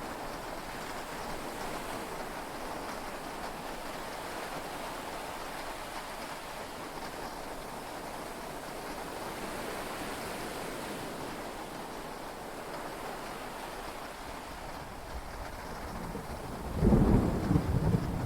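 Heavy rain falling steadily on a yacht's cabin, heard from inside. A low thunder rumble builds about three-quarters of the way through and turns loud and rolling near the end.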